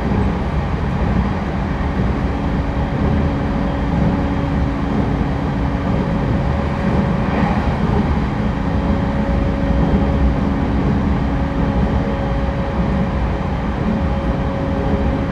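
Cabin running sound of an E231-1000 series commuter train cruising: a steady rumble of wheels on rail with faint steady tones above it.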